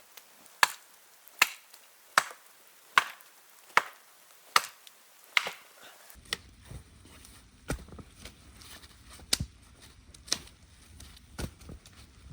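Wood being chopped with a blade: seven evenly spaced chops, a little under one a second. About six seconds in, the sound changes to a few irregular, lighter strikes over a low steady rumble.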